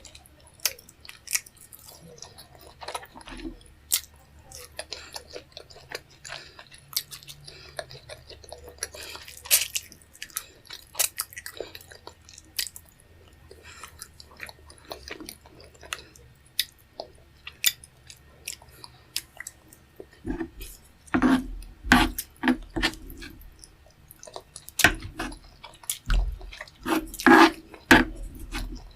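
Close-miked eating: chewing and biting into a meal of chicken, rice, tomato stew and fish head, a run of short wet clicks and crunches. The bites get louder and more frequent in the last third.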